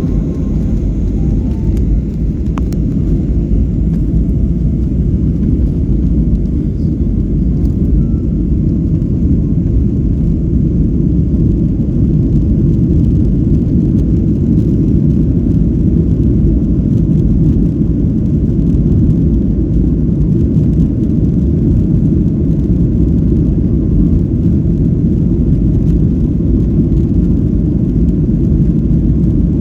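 Steady low rumble of an airliner's jet engines and airflow, heard from inside the passenger cabin. It builds slightly over the first couple of seconds, then holds level.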